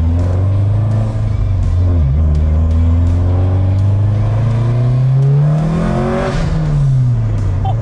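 Subaru WRX STI's turbocharged 2.5-litre flat-four engine under acceleration. Its pitch climbs steadily, drops briefly about two seconds in, climbs again, then falls away about six seconds in.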